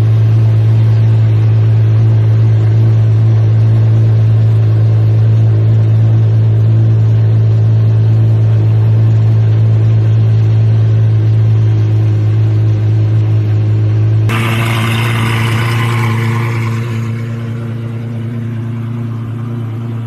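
Apollo Intensa Emozione's 6.3-litre naturally aspirated V12 idling, a deep steady hum that holds one even pitch. About 14 seconds in the sound changes abruptly, picking up a hiss, and then slowly grows quieter while the idle carries on.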